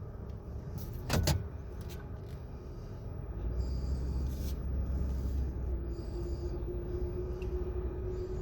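Vehicle driving, heard from inside the cabin: steady engine and road rumble with a sharp knock about a second in. The rumble grows louder about three and a half seconds in, and a steady hum joins it near the end.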